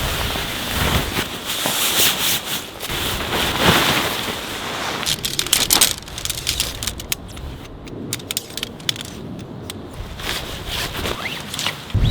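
Nylon tent fabric and camping gear being handled as a tent is unpacked and pitched: irregular rustling, crinkling and scraping with sharp crackles, busiest in the first half and sparser after about six seconds.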